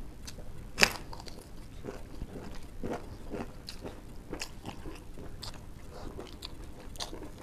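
Eating sounds of two people eating with their hands: a sharp crunch about a second in as a crisp papad is bitten, then irregular chewing with many small clicks and crackles.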